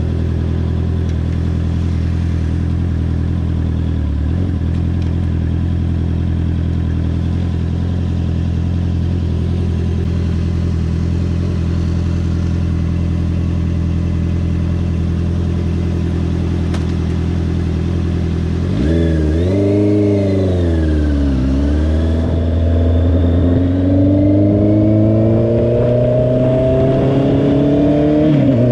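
2022 Honda CBR650R's inline-four engine running steadily at low revs. About nineteen seconds in it revs up and back down, then climbs steadily in pitch as it accelerates, dropping at a gear shift near the end.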